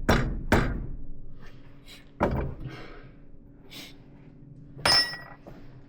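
Hammer blows on a chisel against a stuck wheel bearing on an air seeder spindle, trying to drive it off. There are two quick strikes at the start, a heavier one about two seconds in, and one near the end that rings like struck metal.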